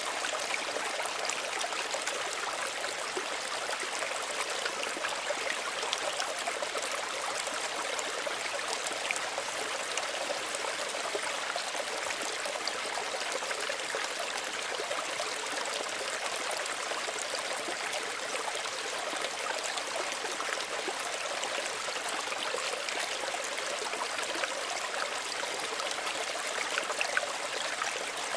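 Small stream running, a steady trickling and splashing of water over stones, even and unbroken.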